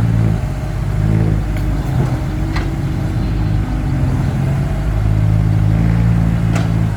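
Excavator's diesel engine running under hydraulic load, its note swelling and easing as the machine works, with two sharp knocks about two and a half seconds and six and a half seconds in.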